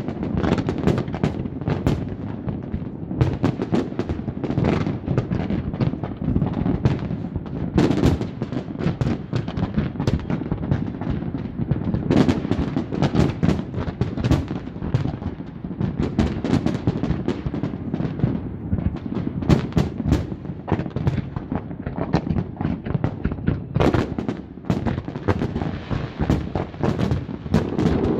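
A large aerial fireworks display: a dense, continuous barrage of booming and crackling shell bursts, many bangs a second overlapping with no break.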